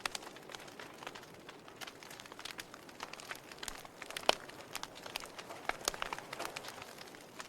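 Burning logs in a fireplace crackling: irregular sharp pops and snaps over a soft steady hiss of the fire, with one louder pop just past halfway.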